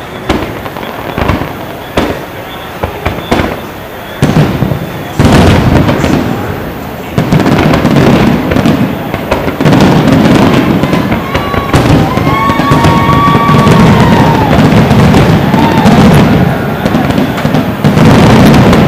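Aerial fireworks display: shells bursting in separate sharp bangs, then from about five seconds in a dense, almost unbroken barrage of booms. A whistling tone rises and falls a few times in the middle.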